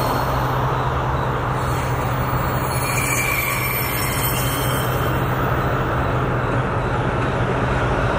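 Locomotive-hauled freight train rolling by: a steady rumble with a low, even engine hum, and a faint high wheel squeal about three seconds in.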